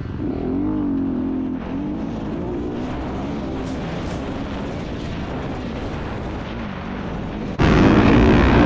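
Dirt bike engines running and revving, their pitch rising and falling. Near the end a much louder engine sound cuts in suddenly.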